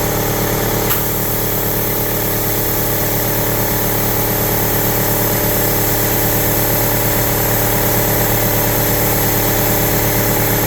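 Air compressor running steadily, a constant electric motor and pump hum as it recharges its tank.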